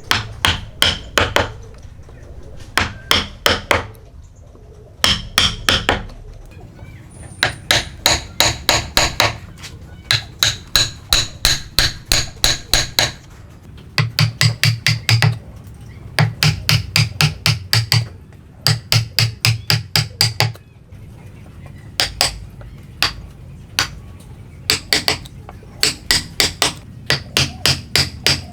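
Hammer striking a chisel in runs of quick blows, about five a second, with short pauses between runs: chopping out waste for hand-cut dovetails.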